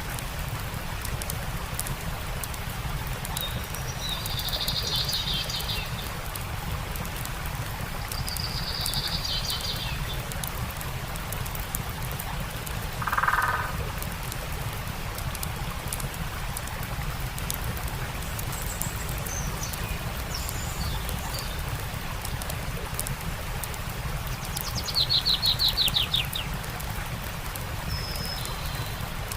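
Steady rush of a stream with fine crackling from a campfire, and songbirds calling now and then: two high buzzy calls in the first third, a lower call near the middle, and a fast trill near the end.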